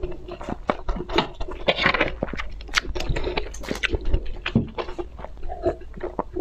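Close-miked eating sounds: noodles being chewed and slurped with many wet mouth clicks, and about four seconds in, the crackle of a cooked shrimp's shell being pulled apart by hand.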